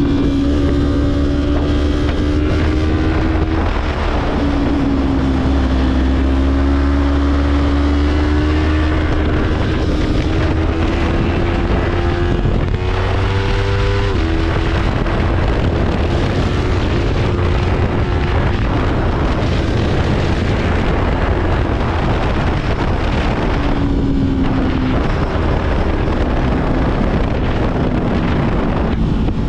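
Sport motorcycle engines being ridden hard, with the engine note climbing and dropping several times as the gears change. Wind rushes over the microphone throughout.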